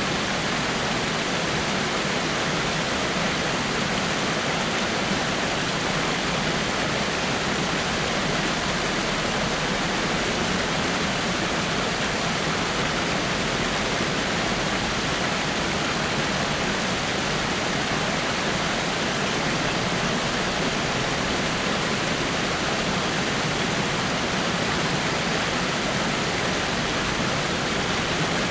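Water falling over rocks in a small waterfall: a steady, even rush of splashing water.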